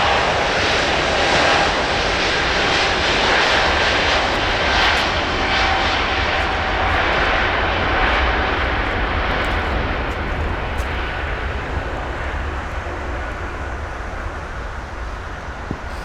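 Jet airliner's engines passing: a loud, steady rush with a faint whine in it, fading gradually over the last several seconds as the aircraft moves away.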